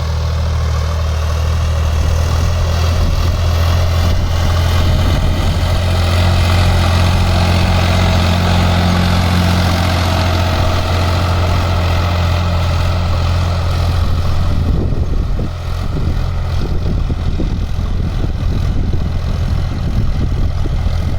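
Sonalika DI-47 RX tractor's diesel engine running steadily with a deep hum. About fifteen seconds in, the sound dips briefly, then goes on rougher and more uneven.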